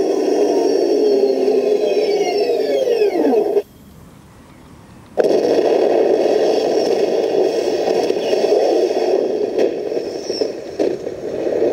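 RC Leopard tank's new electric drive motors and transmission running with a dense grinding rattle. A whine falls in pitch as it slows, and the sound cuts off about three and a half seconds in. It starts again abruptly about a second and a half later and keeps running.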